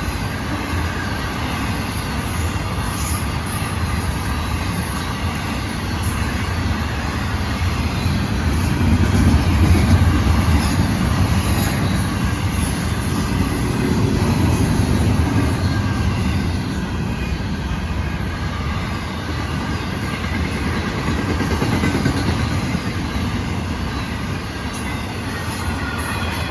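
Intermodal freight train rolling past on the rails: a steady rumble of wheels on track that swells twice.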